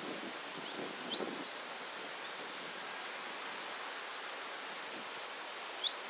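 A few short, high chirps from a bird, each sliding upward, the loudest about a second in and another near the end, over a steady outdoor hiss.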